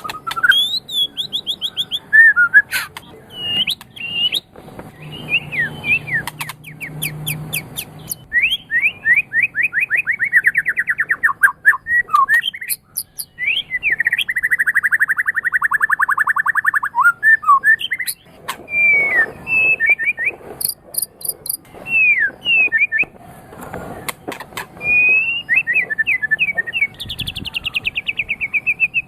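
White-rumped shama (murai batu) singing a long, varied song of fast rippling trills, sweeping whistles and rapid runs of repeated notes, with some very high, thin ticking phrases.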